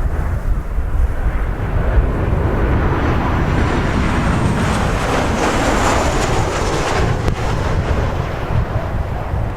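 Boeing 737-700's CFM56 jet engines swelling and fading as the airliner passes on its landing, loudest about five to six seconds in, with a faint high whine. Heavy wind rumble on the microphone runs underneath.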